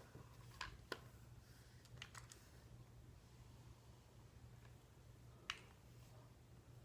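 A few short, sharp clicks over near silence and a faint low hum: a flat iron being handled, its plates clicking together as it clamps and releases strands of hair. There are two pairs close together in the first couple of seconds and a single click later on.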